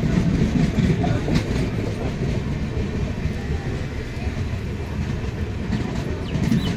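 Two trains crossing at close quarters: the LHB passenger coaches of a passing express rush by on the next track with a steady rumble of wheels on rail and a clatter over the rail joints, heard from aboard the other train. A few sharp clicks and faint high squeaks show over the rumble.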